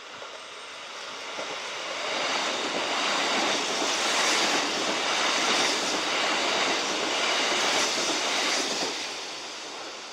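Kintetsu electric train running through the station, its wheels and motors rising to a loud rush for several seconds and then fading as it goes past.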